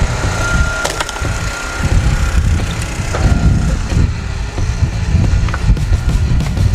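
Heavy wood-processing machinery running under load, with wood cracking and splintering: a sharp crack about a second in and several more near the end.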